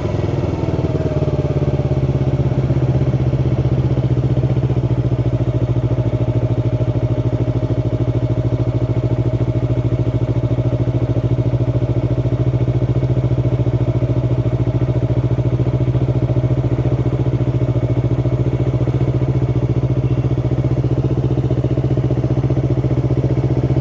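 Yamaha R3's parallel-twin engine, heard from the rider's helmet. It falls back from light revs to a steady idle about a second in, with the throttle off and the clutch pulled in, and keeps idling evenly.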